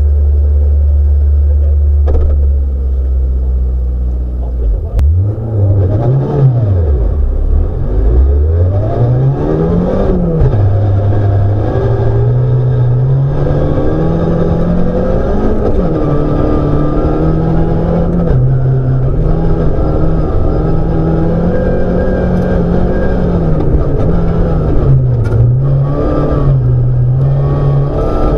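Rally car engine heard from inside the car. It runs steady and low at first; about five seconds in it revs up and drops back sharply twice, then pulls on hard with its pitch rising and falling through gear changes.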